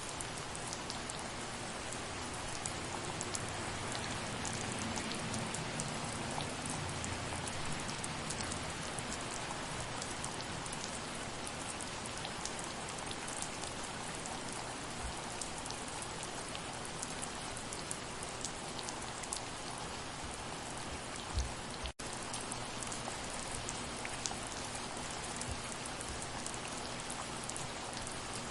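Steady rain falling, with many individual drops ticking on a surface. There is one low thump about three-quarters of the way through, followed right after by a split-second dropout in the sound.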